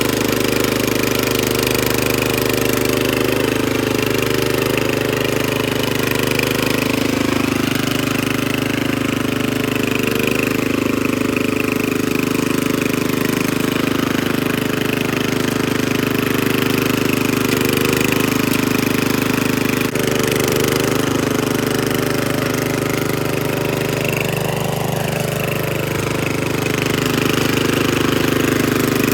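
Troy-Bilt Horse rear-tine rototiller's engine running steadily while tilling, with a brief wavering in its note about three-quarters of the way through.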